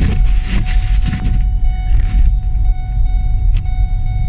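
Steady low road rumble inside a moving car's cabin, with a thin steady tone held above it.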